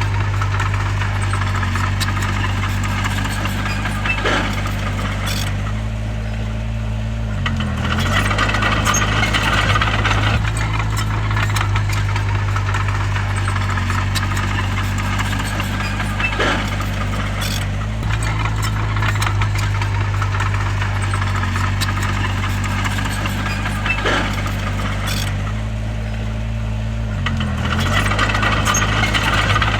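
Crawler bulldozer's diesel engine running steadily under load, with clanking from the machine. Its engine speed dips briefly and recovers about a quarter of the way in and again near the end.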